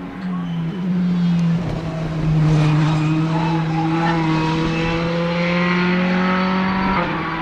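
A racing car's engine running hard at high revs. Its note holds fairly steady while the higher tones climb slowly, and it drops about seven seconds in.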